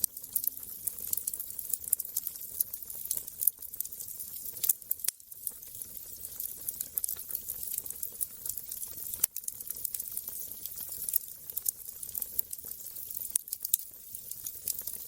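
Wood fire crackling: a steady hiss with frequent small sharp pops.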